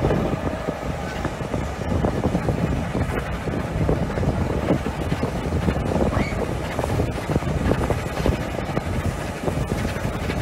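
Moving railway train heard from an open carriage window: wind buffeting the microphone over the steady rumble of the carriage running along the track.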